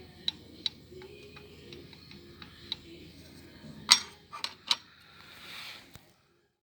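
Kawasaki ZZR400 inline-four engine running with irregular light ticks and clicks: the clutch-basket noise that the owner traces to wear in the basket's spring seats and centre bushing. A few louder sharp clicks come near the end, and the sound cuts off about six seconds in.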